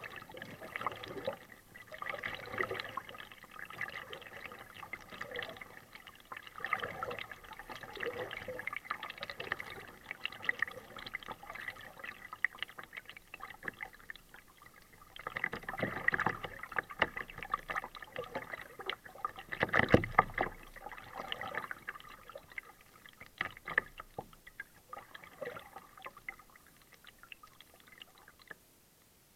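Kayak paddle dipping and splashing in the water stroke after stroke, with water dripping and trickling between strokes. The loudest splashes come about halfway through and again about two-thirds of the way in, and it quietens near the end.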